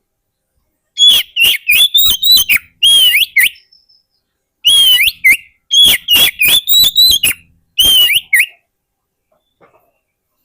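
Oriental magpie-robin (kacer) singing loud, quick whistled notes that sweep up and down. The notes come in two rapid phrases, the first about a second in and the second a little before the middle, with a short pause between them.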